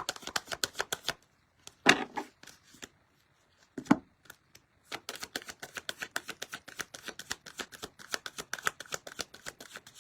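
A tarot deck being shuffled by hand: quick runs of card riffles with many clicks a second, stopping about a second in and resuming about halfway through. Two louder single knocks come in the pause, about two and four seconds in.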